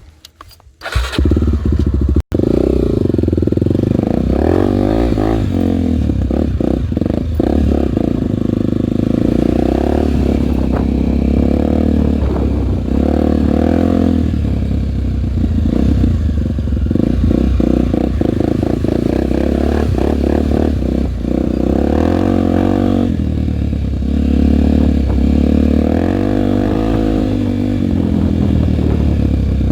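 Honda single-cylinder four-stroke dirt bike engine running while ridden, its pitch rising and falling with the throttle, with many short knocks and rattles. It cuts in suddenly about a second in.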